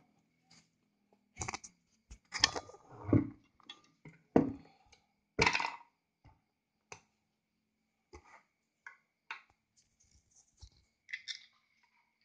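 Irregular knocks, clicks and metallic clinks from a sewing machine and its parts being handled, about a dozen separate strokes, the loudest in the first six seconds and sparser after.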